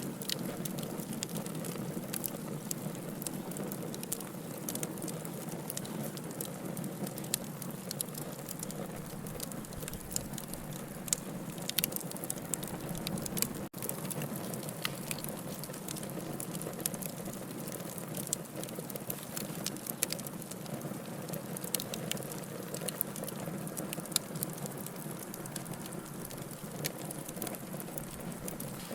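Wood fire burning in a fireplace: a steady rush of flames with frequent sharp crackles and pops, broken by a momentary dropout about fourteen seconds in.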